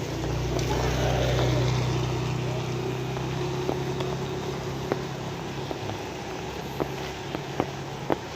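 Steady rain with scattered sharp drips, under the low hum of a motor vehicle's engine that is loudest about a second and a half in and then fades away.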